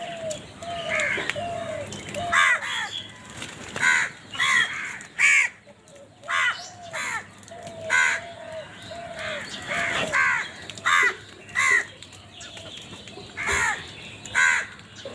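Crows cawing over and over, harsh calls coming every half second to a second or so. Between them, a quieter run of lower, shorter arched notes from another bird.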